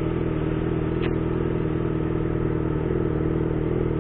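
Motorcycle engine idling steadily, heard from the bike itself, with a brief faint high chirp about a second in.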